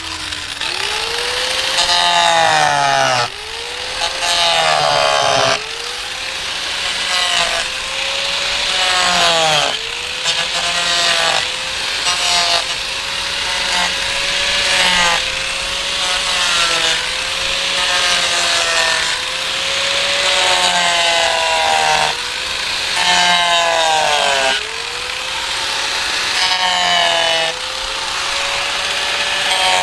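A handheld power saw cutting slits into a wood slab. Its motor slows as the blade bites into the wood and speeds back up, over and over about every two seconds, with a few brief pauses between cuts.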